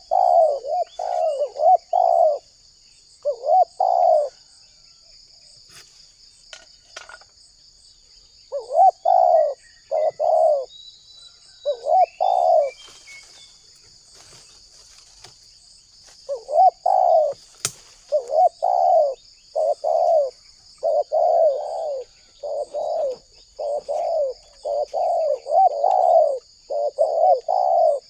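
Spotted dove (tekukur) cooing: runs of short, mellow coo notes, with pauses of a few seconds between bouts and a long unbroken run from about 16 s on. A steady high insect trill runs underneath, and there is a single sharp click about two-thirds of the way through.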